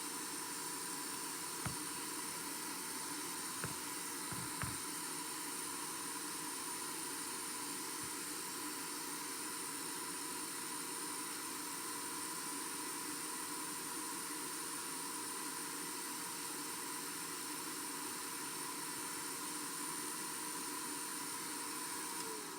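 Small blower motor running steadily with a hiss and a constant whine, with a few light clicks in the first five seconds.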